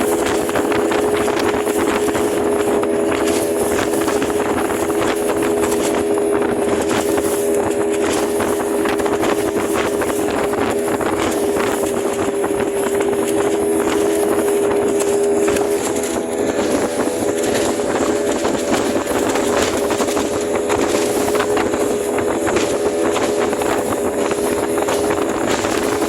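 Small fishing boat's outboard motor running steadily under way, a constant engine drone over the rush of wind and water.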